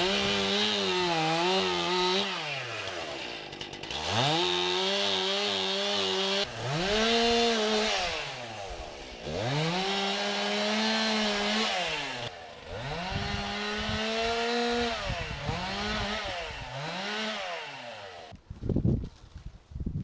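Chainsaw revved up to full throttle and held about six times, its pitch dropping back toward idle between the runs. It stops near the end.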